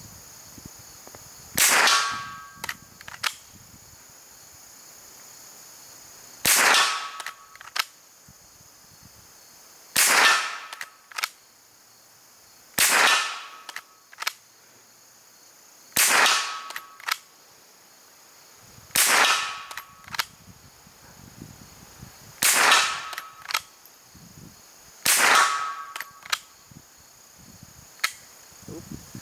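Eight shots from a Volquartsen Summit .22 LR straight-pull bolt-action rifle, one every three seconds or so. Each sharp crack is followed by two or three quick clicks as the bolt is cycled for the next round.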